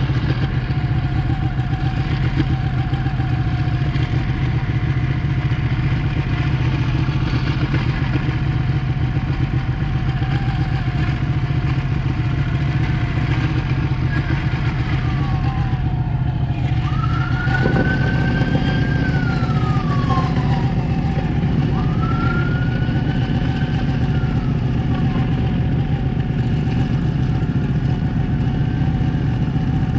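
Ducati 1199S Panigale's L-twin engine running steadily, its tone shifting about halfway through. Past the middle, a siren rises and falls a couple of times over the engine.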